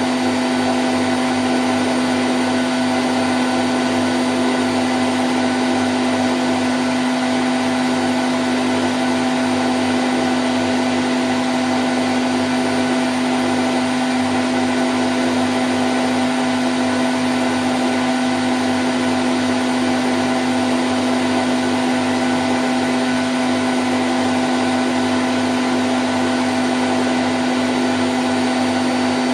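Candy Grand O' F106 washing machine spinning at 1000 rpm: a steady, unchanging hum with one strong low tone and fainter higher tones over an even rushing noise.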